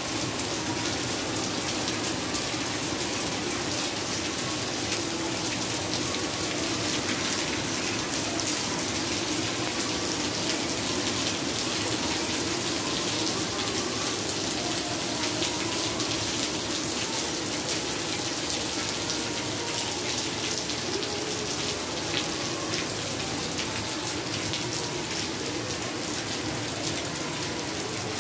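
Heavy rain falling steadily onto a tiled floor and into puddles, an even unbroken hiss of splashing water.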